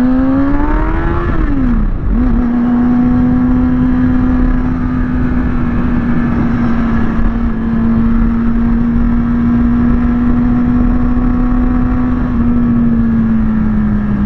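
Kawasaki ZX-6R's inline-four engine pulling in gear, its pitch rising for about a second, then an upshift drops the revs about two seconds in. It then holds one steady pitch while cruising, easing off a little near the end.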